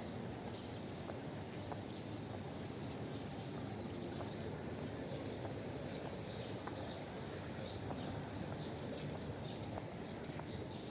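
Steady outdoor hum of a seaside promenade, with a scatter of short, high, falling chirps in the second half.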